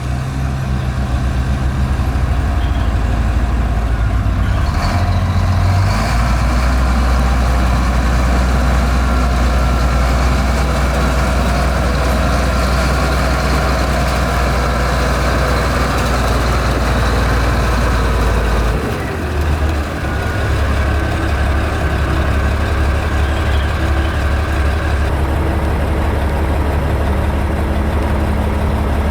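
Heavy diesel construction machinery engine running steadily. Its note shifts about six seconds in and again about two-thirds of the way through.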